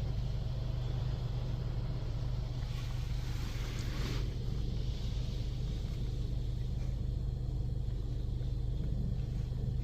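Steady low hum of an automatic touchless car wash, heard from inside the car's cabin, with a brief hiss of spray about three to four seconds in.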